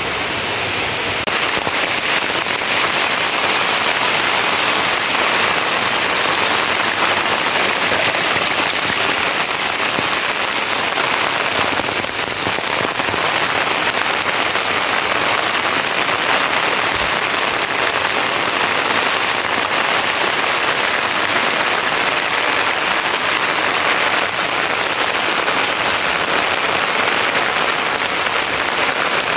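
Heavy rain falling steadily, a dense patter of drops striking a hard surface; it gets louder about a second in and then holds steady.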